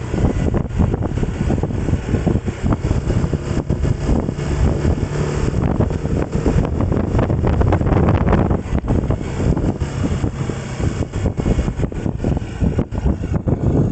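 A vehicle's engine running steadily while travelling, with heavy wind buffeting the microphone.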